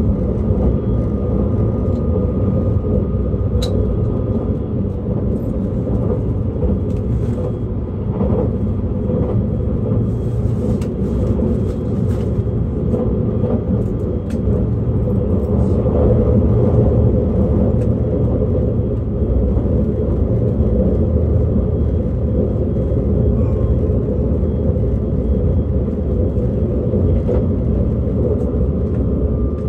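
JR East E657 series limited express electric train running at speed, heard from on board: a steady rumble of wheels on rail and traction motors, with a faint steady tone and a few sharp clicks.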